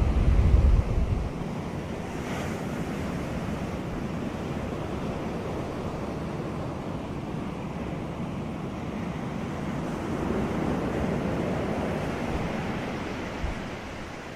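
Sea waves washing onto a beach, a continuous surf hiss that swells and ebbs, with a louder wash about ten seconds in. Wind buffets the microphone with a low rumble in the first second or so, the loudest moment.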